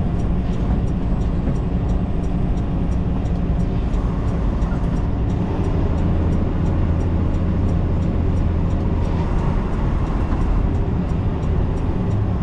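Inside a semi-truck's cab while driving: the diesel engine runs steadily under road noise. The low drone grows heavier for a few seconds in the middle.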